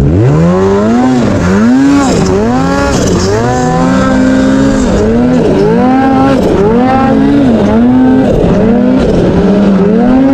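Snowmobile engine being throttled on and off over and over, its pitch climbing and dropping about once a second.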